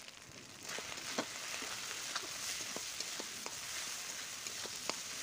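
Spice paste, onions and sliced potatoes sizzling in oil in a metal karahi as the masala is fried down after salt and turmeric go in. The sizzle grows louder about a second in as it is stirred, and the metal spatula scrapes and taps against the pan several times.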